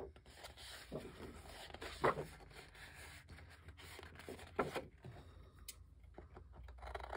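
Faint rustling and rubbing of paper being handled, with a few soft taps and clicks.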